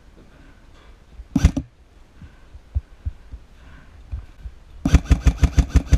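Airsoft electric rifle, likely the Lancer Tactical LT-25 Gen 2, firing: one sharp shot about a second and a half in, then a rapid full-auto string of about a dozen shots near the end that scores a hit on an opposing player.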